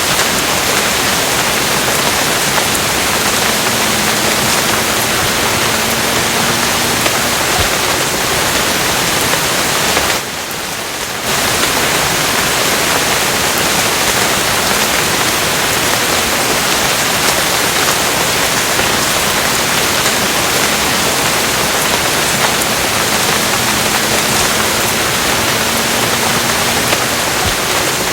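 Steady, dense rainfall, an even rushing hiss of many drops with no separate patters standing out. About ten seconds in, it dips briefly quieter for about a second, then comes back at the same level.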